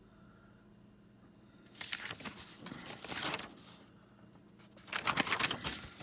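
Two bouts of crinkling, crackly rustling from plastic being handled, each lasting a second or so. The second bout starts about five seconds in.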